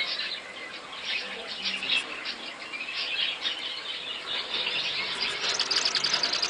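Small birds chirping and twittering rapidly, many short calls overlapping, growing busier and louder about five seconds in.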